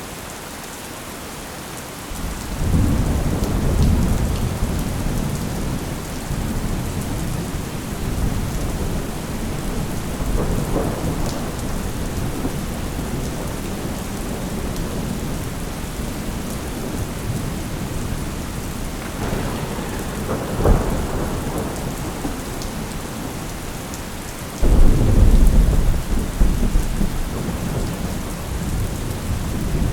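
Thunderstorm: steady heavy rain with rolling thunder, rumbles building about two seconds in and again midway, and a sudden loud thunderclap near the end.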